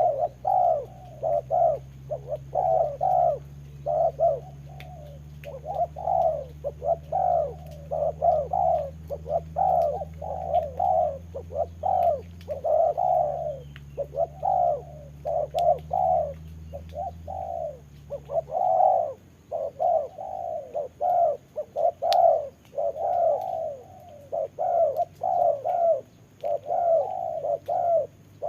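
Spotted doves cooing over and over in quick, overlapping phrases, several notes a second. A low steady hum runs underneath and stops about two-thirds of the way through.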